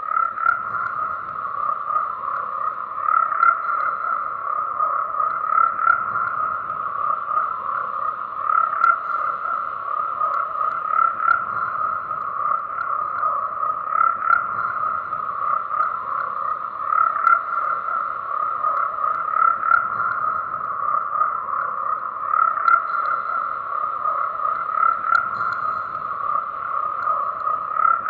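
Dense chorus of croaking frogs, a continuous mass of calls that swells louder every two to three seconds.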